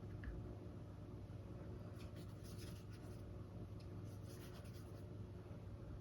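Faint strokes of a paintbrush dabbing and feathering acrylic paint on canvas: short, soft scratchy strokes in two clusters, about two seconds in and again about four seconds in, over a low steady hum.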